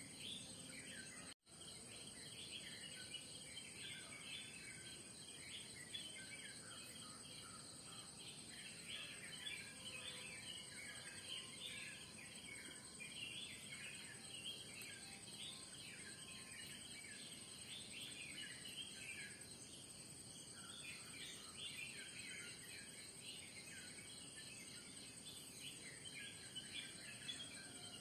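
Morning chorus of many birds chirping and calling in quick short notes, over a steady high-pitched drone of crickets or other insects. The sound cuts out completely for a split second about a second and a half in.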